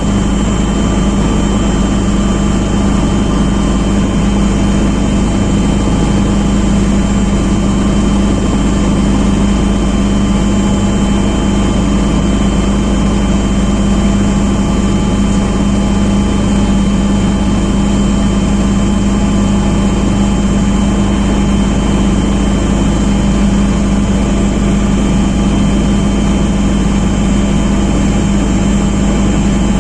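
A steady engine running without letup, with a strong low hum and a few fixed higher tones.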